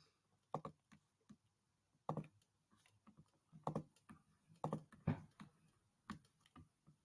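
Faint, irregular clicks and taps, about a dozen spread unevenly over several seconds, of the kind made by keys being pressed on a keyboard.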